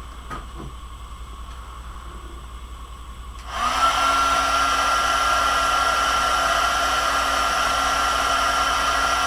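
Craft heat tool switched on about three and a half seconds in, its whine rising briefly as it spins up and then running steadily, being used to go back over a spot that was missed.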